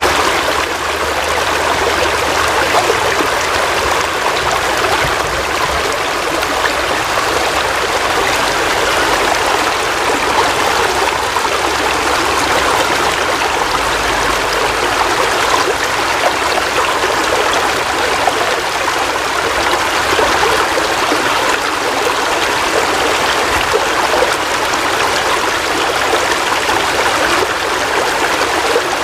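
Steady heavy rain, a dense, even rush of drops that never lets up.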